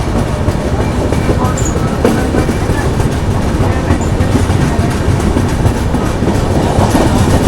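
Chennai–Shalimar Superfast Express passenger train running on the rails, a steady, loud rumble.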